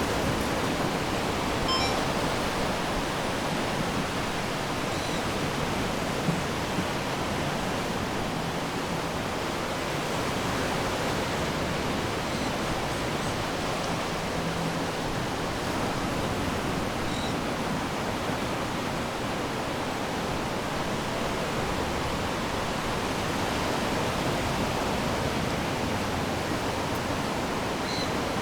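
Ocean surf washing on the shore, a steady rushing noise with no distinct individual wave breaks.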